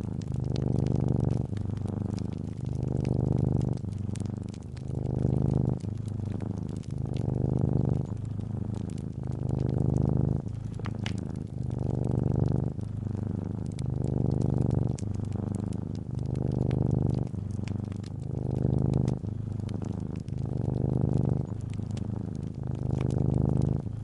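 Domestic cat purring close up, a low rumble that swells and dips in an even rhythm with each breath in and out, about every second and a half. Faint fireplace crackles tick over it.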